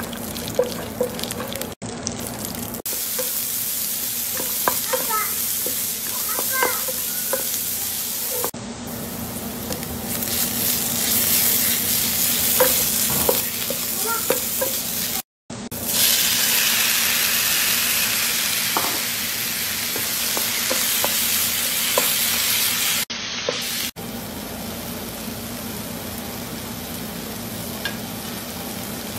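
Spices, then chopped onions with garlic and ginger, sizzling as they fry in oil in a nonstick pan, stirred with a wooden spatula that scrapes and taps against the pan. The sound jumps abruptly at several cuts.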